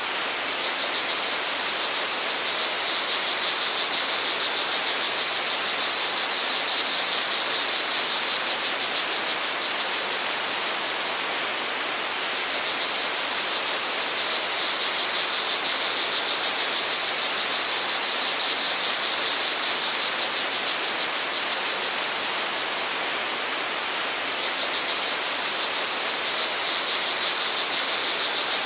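Steady rush of a forest stream or waterfall, with crickets trilling at a high pitch in three long spells of several seconds each.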